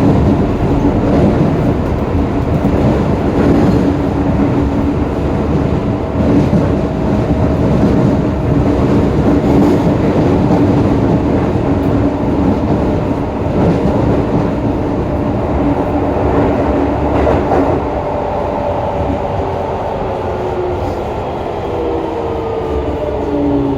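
Running sound inside a Hokuso 7300-series train with GTO-VVVF inverter control: a steady rumble of wheels on rail with rail-joint clicks and a steady motor whine. From about three-quarters of the way through, the inverter tones glide downward in pitch as the train slows.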